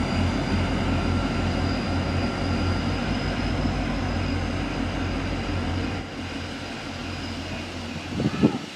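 Diesel-hauled passenger train running past on the line: a steady low engine-and-wheel rumble with faint high whining tones from the wheels on the rail, dropping off about six seconds in as it moves away. A brief knock comes near the end.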